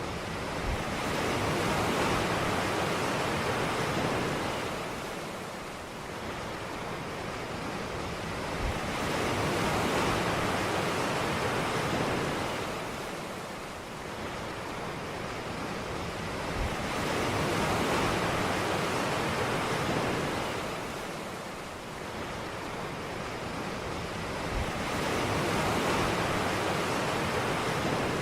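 Ocean surf breaking on a beach: a steady wash of noise that swells and fades with each wave, about one wave every eight seconds.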